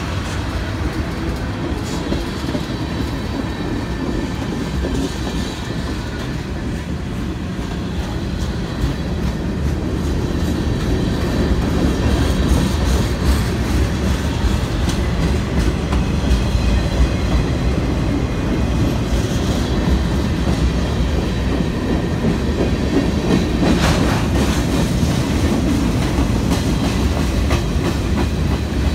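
Loaded freight cars (tank cars, covered hoppers, boxcars) rolling past on steel wheels, a steady low rumble that grows louder about ten seconds in, with a few sharp knocks from wheels and couplers.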